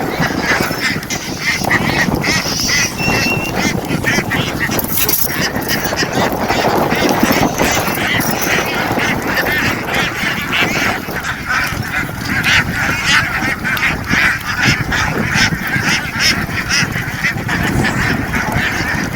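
A large flock of domestic ducks quacking, many at once in a continuous, loud din.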